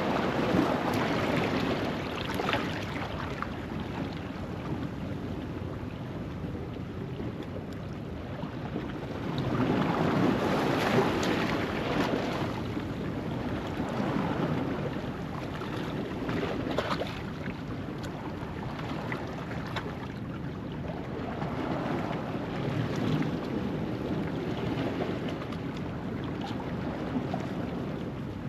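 Ocean waves washing in over a rocky shoreline at low tide, the surf swelling and easing several times, loudest about ten seconds in.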